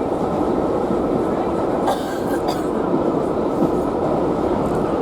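Railway passenger coach running along the line, heard from inside: a steady rumble of wheels on track, with a couple of short clicks about two seconds in.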